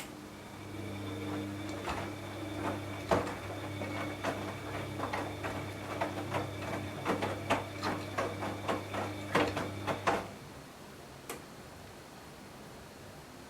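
Washing machine running: a steady motor hum with irregular clicks and knocks as the drum turns, stopping about ten seconds in.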